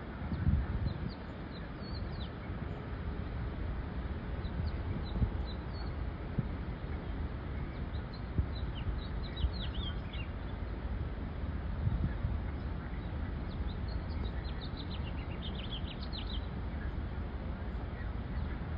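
Songbirds chirping in quick runs of short falling notes, busiest about halfway through and again near the end, over a steady low rumble.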